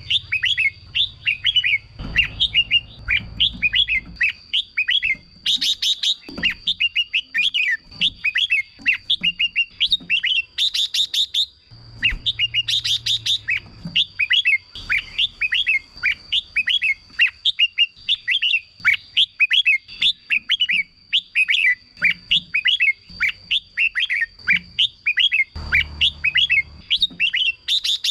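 Red-whiskered bulbul song: a continuous run of quick, sweeping whistled phrases, broken a few times by short harsher, higher chattering bursts. A thin steady high-pitched tone runs underneath.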